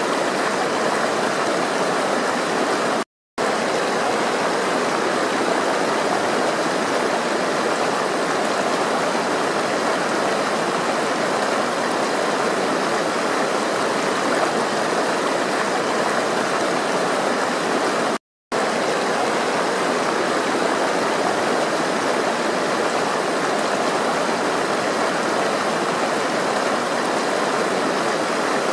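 Flowing water running steadily, an even rush with no change in level. It cuts out completely for a split second twice, about three seconds in and about eighteen seconds in.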